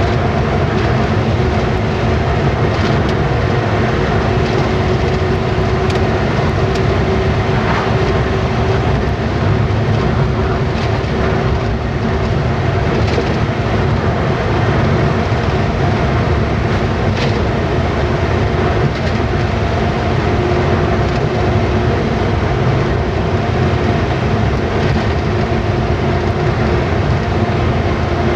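Steady engine drone and road rumble inside a moving truck's cab, with a few brief rattles.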